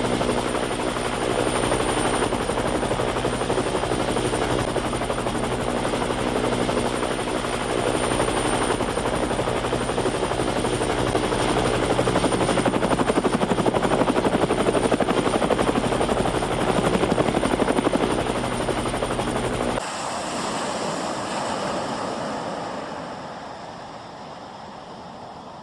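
Helicopter rotor and engine running steadily, a dense drone with several steady engine tones. About 20 seconds in it cuts off abruptly to a quieter rushing sound of sea surf and wind, which fades lower over the next few seconds.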